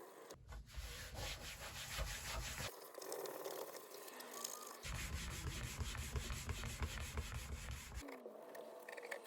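Hand sanding on a guitar's wooden body or neck: quick, scratchy back-and-forth strokes in two spells, one of about two seconds and a longer one of about three, with a short pause between.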